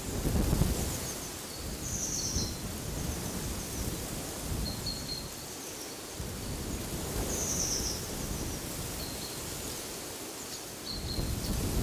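Wind gusting through trees, a deep rumble that swells near the start and again near the end, with small birds giving short high chirps several times throughout.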